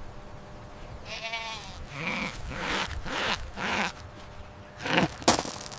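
Goat bleating, a few wavering calls one after another, followed by a sharp click near the end.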